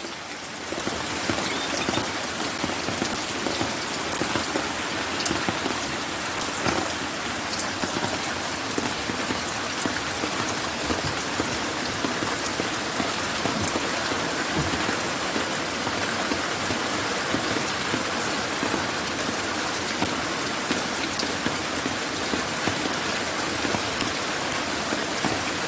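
A light rain shower falling steadily, with a constant hiss and individual drops ticking now and then.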